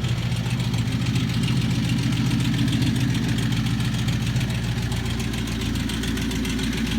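Lincoln Town Car's V8 engine idling steadily, still cold shortly after a cold start.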